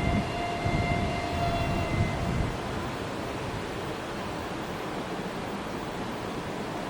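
Freight train running past: a low rumble under a steady noise, with a high steady tone that fades out about two and a half seconds in.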